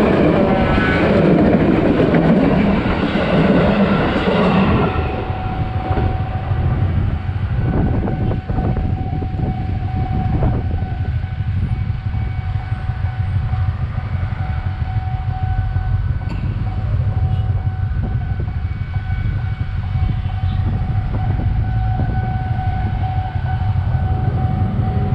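KRL Commuter Line electric train rumbling and clattering past close by for the first few seconds, then moving away. After it, a level-crossing warning alarm sounds as a steady tone over a low rumble.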